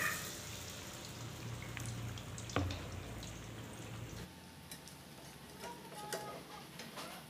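Omelette crackling and sizzling in hot oil in a wok, a stream of small spits and pops, with one sharp knock about two and a half seconds in.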